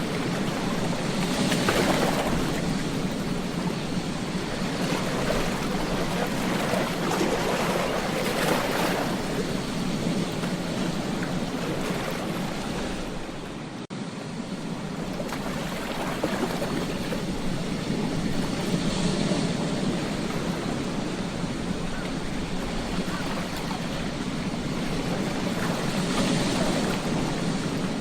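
Ocean waves washing onto a beach: a continuous surf rush that swells with each breaking wave, four times. Near the middle the sound drops out for an instant.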